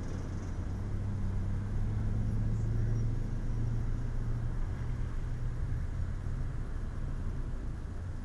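Honda Civic Si four-cylinder engine idling steadily while the car sits stopped, a low even hum that swells slightly a couple of seconds in.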